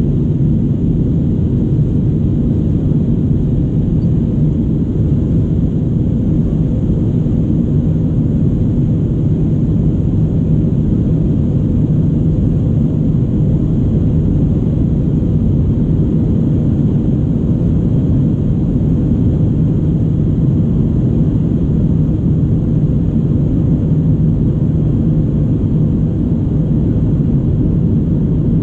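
Steady cabin noise inside an Airbus A319-114 airliner: a loud, even low rumble from its engines and the airflow, with no change in level.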